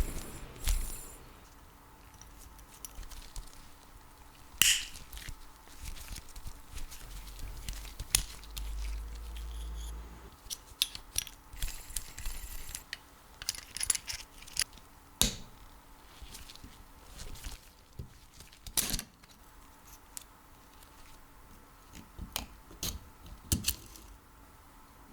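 Hand work on the parts of an old electric drill: scattered sharp clicks, knocks and small rattles of tools and metal and plastic parts being handled, with a low rumble for a couple of seconds around the middle.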